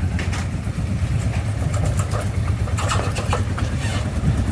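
An engine idling with a steady low rumble, with a few light clicks and knocks about three seconds in.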